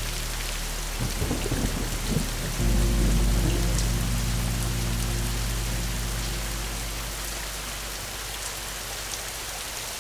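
Steady rain with a thunderstorm: thunder crackles about a second in, then breaks into a deep rolling rumble at about two and a half seconds that slowly dies away under the rain.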